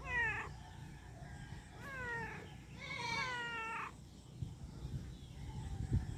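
A cat meowing three times, each meow falling in pitch, the third one the longest.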